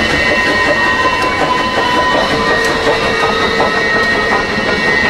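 Steam train running along the track, a steady rumble with several high, steady tones held over it.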